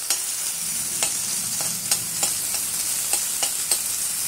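Chopped spring onions and ginger sizzling in a little hot oil in a metal kadai, with a steady high hiss. A metal spoon stirring them scrapes and clicks against the pan a dozen or so times at irregular intervals.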